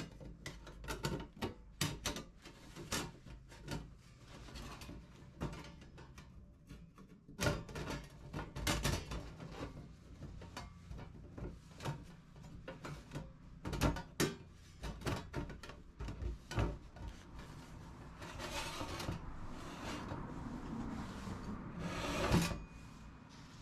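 Irregular knocks and clicks of objects being handled, then a few seconds of steady rubbing or scraping that ends with a sharper knock.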